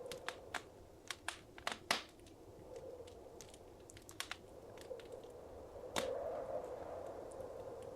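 Wood fire crackling: a run of sharp pops and snaps about one to two seconds in, a few more near the middle, and one loud pop about six seconds in, over a steady soft rushing of the flames.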